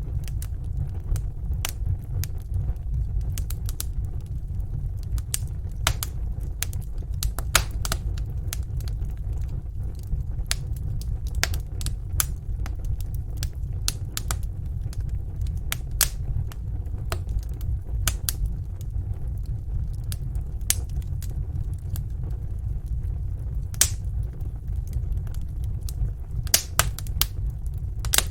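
Wood fire in a fireplace crackling, with frequent sharp, irregular pops over a steady low rumble of burning.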